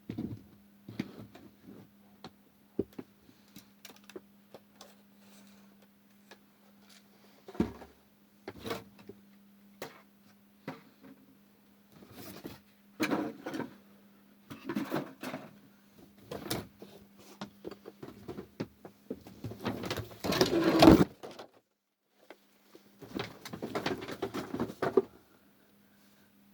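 Irregular knocks, clicks and rustling, loudest about twenty seconds in, over a steady low hum that cuts off suddenly a little later.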